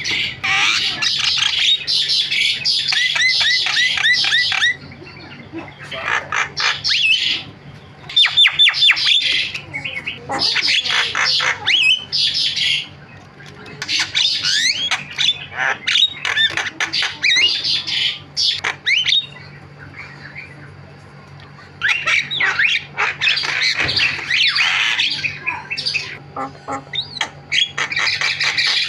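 Javan myna (jalak kebo) singing a busy, harsh song: bursts of squawks, chatter and quick whistled notes, broken by several short pauses.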